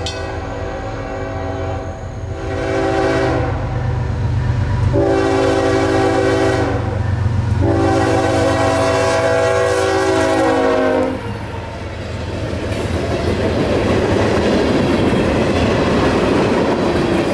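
Freight locomotive's air horn sounding four blasts for a grade crossing as the train approaches, the last blast the longest, over the rumble of the diesel engine. About eleven seconds in the horn stops and the steady rolling noise of freight cars passing over the rails takes over.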